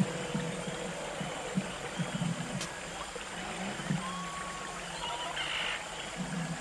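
Steady rush of flowing river water, with faint low sounds coming and going.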